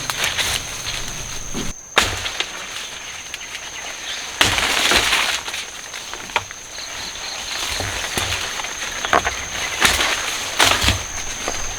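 Rustling, crackling and snapping of leaves and stalks with scattered knocks, loudest about four and a half seconds in, over a steady high insect trill.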